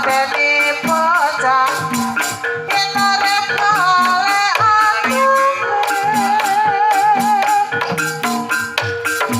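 Banyumasan tayub gending: a sinden (female singer) sings long wavering lines over the ensemble's sustained low notes and a steady pattern of drum and percussion strokes.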